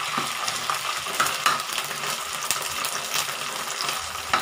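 Canned sardines sizzling in hot oil in a frying pan, with a spatula scraping and clicking against the pan as the fish is broken up; one sharp click near the end.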